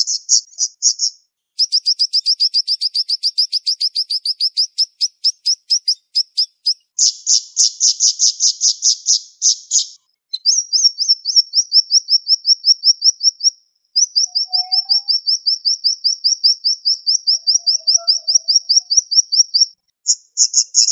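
Siri-siri songbird singing rapid-fire trills of sharp, high repeated notes, about eight a second. The trills come in about five bouts separated by short breaks.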